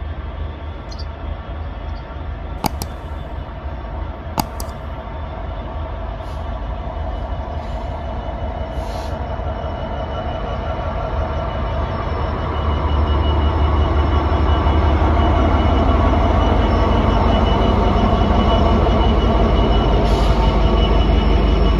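Diesel freight locomotive engine rumbling as a train approaches, growing markedly louder about halfway through and then holding loud, with two sharp clicks early on.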